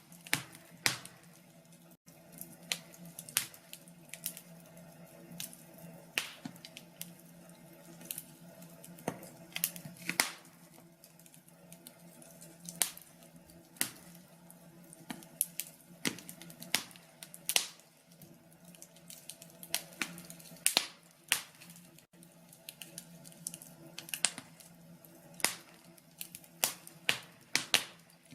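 Wood fire burning in a fireplace, crackling with irregular sharp pops and snaps over a soft hiss.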